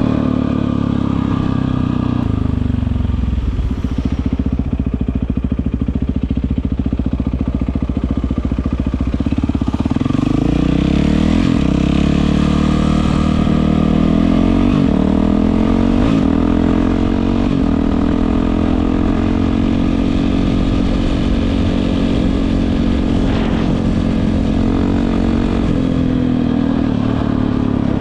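Yamaha WR450F's single-cylinder four-stroke engine with an Akrapovic exhaust running. The engine speed drops about two to three seconds in, climbs again about ten seconds in, and then holds high.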